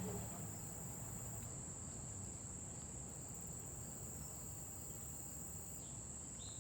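Crickets chirping in a steady, high-pitched chorus, over a faint low background hum.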